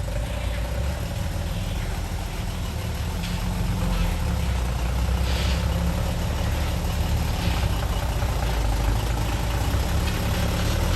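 Heavy diesel engine of earthmoving machinery running steadily, a little louder from about four seconds in, with a few faint knocks.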